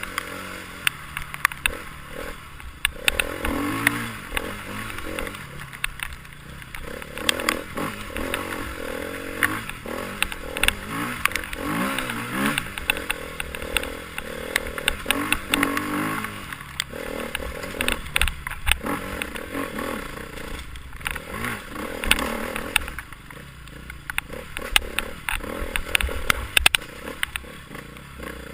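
Enduro motorcycle engine revving up and down again and again as it rides, with frequent clatters and scrapes mixed in.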